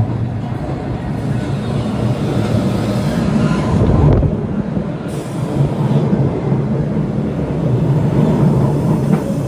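Train running on the rails, a steady loud rumble with a single sharp knock about four seconds in.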